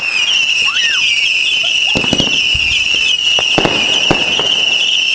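Fireworks going off in a finale: a continuous high warbling whistle runs throughout, with sharp bangs about two seconds in and twice more a little before the four-second mark.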